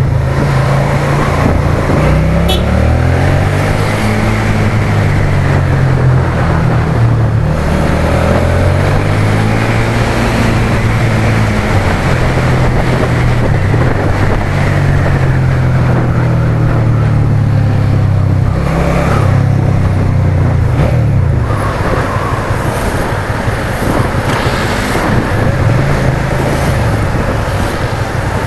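Suzuki SFV650's 645 cc V-twin engine running under way, its pitch rising and falling again and again as the rider opens and closes the throttle and changes gear.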